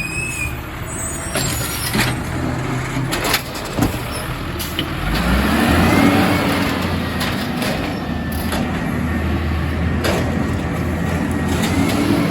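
Refuse truck's engine running, with several sharp knocks and clanks. About five seconds in the engine revs up, then settles back.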